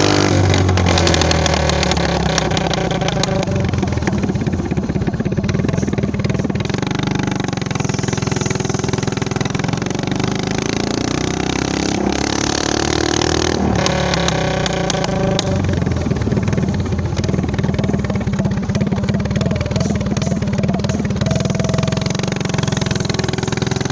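Motovox minibike's stock Predator 212 single-cylinder four-stroke engine running under way through a GPS trumpet exhaust, its engine speed rising and falling as the throttle changes.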